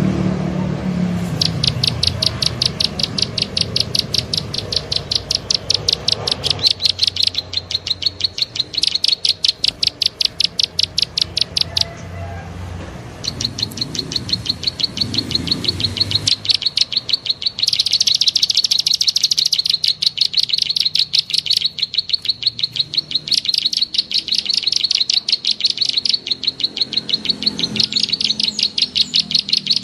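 Small bird's rapid clicking chirps, a fast high-pitched train of about ten notes a second, used as a bird-trapping lure call. The trains pause briefly near the start and about twelve seconds in, then resume.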